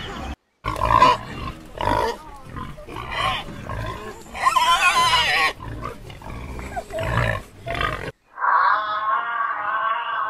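Animal calls: a run of short, rough calls with one longer wavering call about halfway through. Near the end, after an abrupt cut, a different sustained wavering pitched call.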